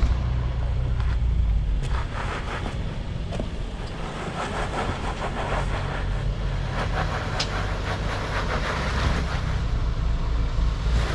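Off-road 4x4 engine running steadily at low revs, a constant low rumble.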